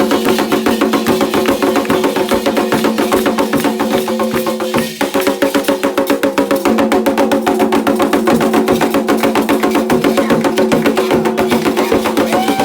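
Fast, dense Candomblé ritual percussion: drums with a sharp, wood-block-like clacking on the strokes over sustained pitched tones, briefly thinning out about five seconds in.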